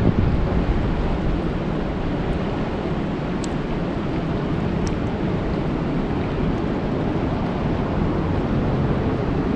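Steady rain falling on a lake: an even wash of noise, strongest low down, with a few faint ticks.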